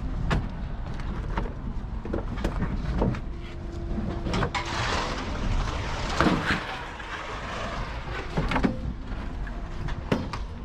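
Scrap metal clanking and banging as it is unloaded, over the steady low rumble of an engine running.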